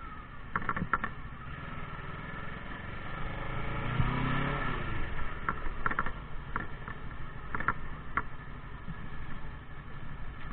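Motorcycle engine running during a ride, a steady low rumble whose revs rise and fall about four seconds in. Several brief sharp clicks or rattles come through now and then.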